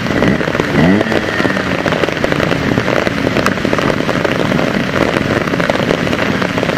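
Torrential rain falling, a dense crackle of drops. A trial motorcycle's engine revs up briefly about half a second in.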